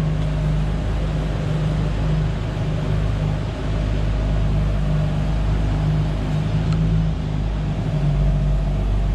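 Straight-piped 4.8-litre inline-six of a Nissan Patrol Y61 4800 VTC running at steady engine speed, a constant low, deep exhaust drone with no revving.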